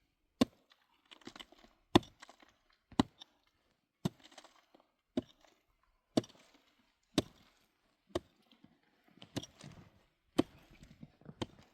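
Repeated sharp chopping strikes of a hand tool, about one a second and fairly even, each followed by a brief crackle or scrape.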